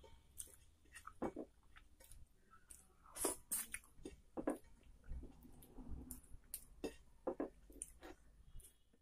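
A person chewing soft rice and curry, with many irregular wet mouth smacks.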